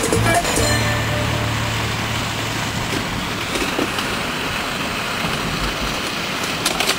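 Steady vehicle noise: an engine running with a low hum that fades after a couple of seconds, under a continuous hiss. Music comes back in at the very end.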